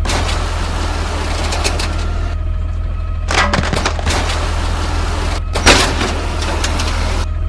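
Recycling garbage truck's engine running steadily under three bursts of clattering noise with sharp cracks, the loudest crack a little past halfway.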